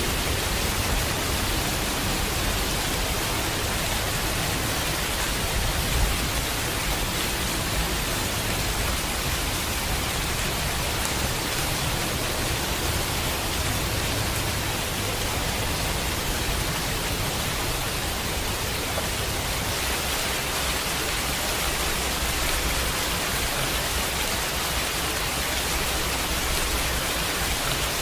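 Steady heavy rain, an even hiss without a break, with a low rumble beneath it that swells and fades over several seconds, like distant thunder.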